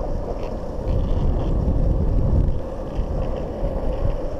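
Steady low rumble with wind buffeting the microphone, as when moving along a road.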